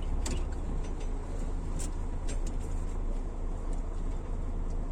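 Heavy truck's diesel engine running steadily with road and cab noise, heard from inside the cab, with a few scattered light clicks and knocks.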